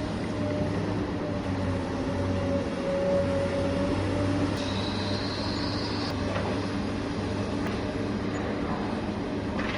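Electric motors and gearing of a radio-controlled construction machine running steadily, a whining drone with a few steady pitches; a higher thin whine joins for about a second and a half near the middle.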